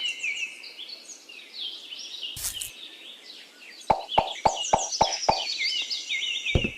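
Small birds chirping and tweeting in quick high calls. A run of about six sharp clicks or knocks, evenly spaced, comes about four seconds in.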